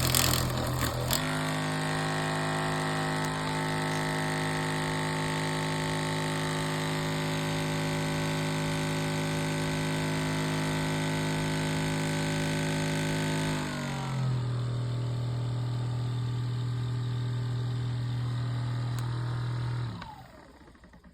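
Ekrin B37S massage gun running with a steady motor buzz, which drops to a lower pitch about two-thirds of the way through and holds there, then stops shortly before the end.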